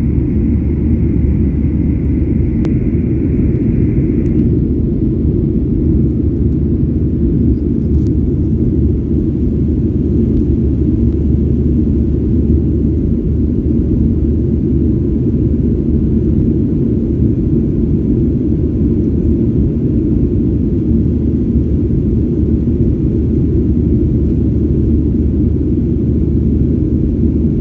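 Steady loud rumble of a Boeing 737-800's jet engines heard inside the passenger cabin, with a steady high whine over it that stops about four seconds in.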